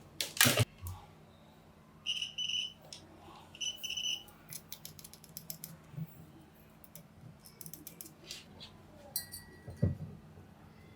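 Scattered clicks and knocks of hand work, with a loud knock near the start and two short high squeaks about two and four seconds in, over a faint steady hum.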